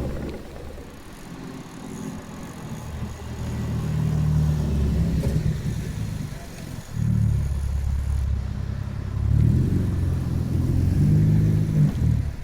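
Car engines running as cars drive slowly past one after another, the low engine note swelling and fading three or four times as each one goes by.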